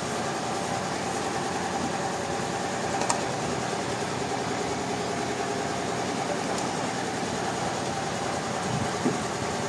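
Sawmill machinery running steadily with a continuous mechanical hum, with a sharp click about three seconds in and a short knock near the end.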